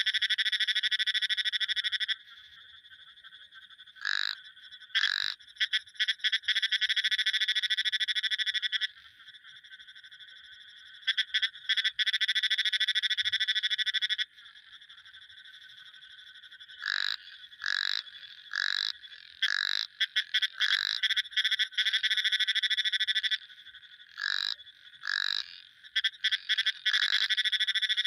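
Frogs calling. Trills of rapid pulses, each lasting two to four seconds, alternate with short single calls that drop in pitch at the end, several in quick succession in the second half.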